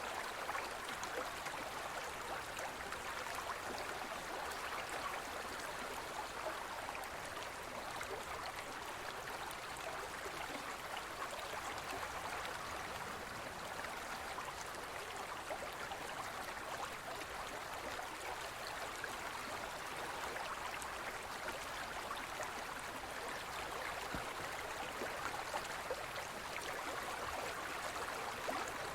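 Gentle forest river flowing: a steady rush and babble of running water.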